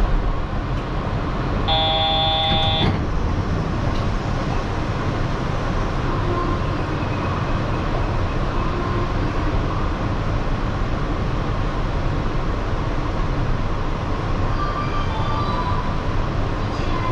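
Steady background hum of a Yurikamome automated train standing at a station. A brief electronic buzzer tone sounds about two seconds in, with faint short tones near the end.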